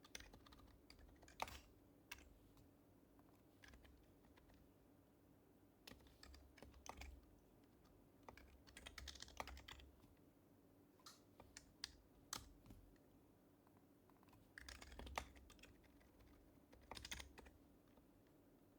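Typing on an HHKB Professional Hybrid Type-S keyboard with its silenced Topre switches: soft keystrokes in short irregular bursts with pauses between, a few strokes louder than the rest.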